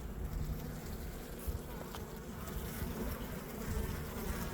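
Honeybees buzzing around an opened hive, a steady low hum.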